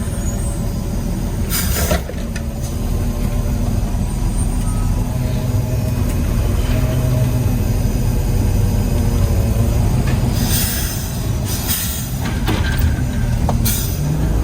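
Peterbilt 320 garbage truck's engine running steadily under the cab, with several short air hisses, once about two seconds in and three times near the end.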